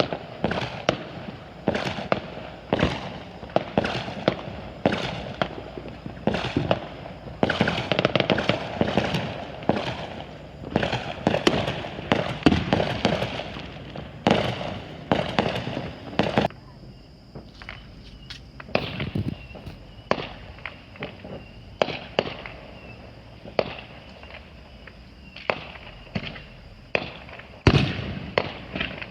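Consumer fireworks and firecrackers going off: rapid, crowded cracks and bangs for about the first half, then scattered single pops.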